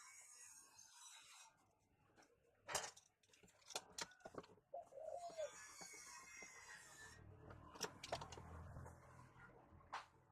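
Faint cooing of a dove or pigeon, with a few sharp clicks and knocks scattered through it.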